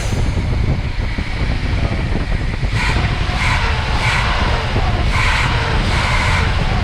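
Pontiac Grand Prix engine running on its rebuilt carburetor, a steady low rumble. Several short hissing surges come and go in the second half. The engine doesn't want to stay running well, which the owner blames on something he got wrong rebuilding the carburetor's choke.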